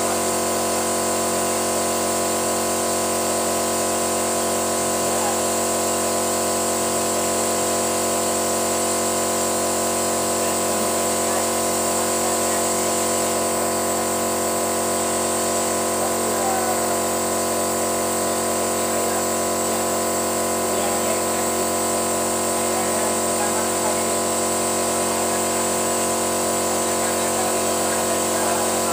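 A motor running steadily at a constant speed, with an unchanging hum.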